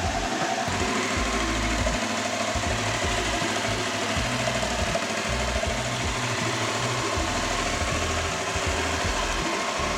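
Yamaha R7's 689 cc parallel-twin engine running steadily with an even, unbroken rumble.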